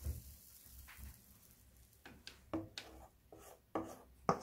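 A kitchen utensil scraping and tapping in a frying pan as soft, whipped soufflé omelette batter is laid into melted butter: a faint hiss, then about five short scrapes in the second half.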